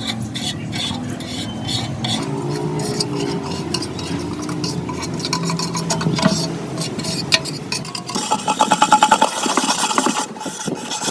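Scraping, rubbing and clinking of metal parts being worked by hand, with a quick even run of strokes about eight seconds in.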